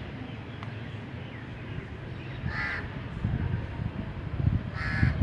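Two short harsh bird calls, about two and a half seconds apart, over a low background rumble.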